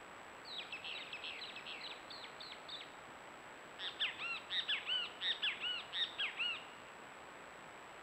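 A bird calling: a quick series of short notes, then a louder run of about a dozen ringing notes that rise and fall, over a steady hiss.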